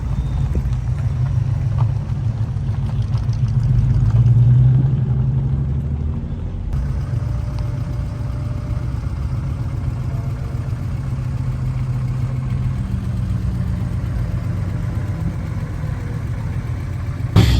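Classic Ford car engine idling steadily, with a brief swell in revs about four seconds in.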